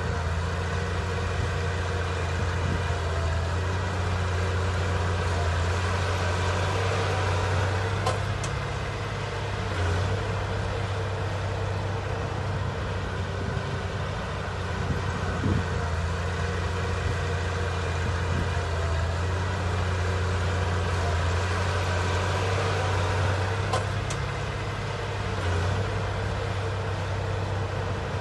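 Heavy diesel engine of earthmoving machinery running steadily with a deep, even hum, and a couple of faint clicks.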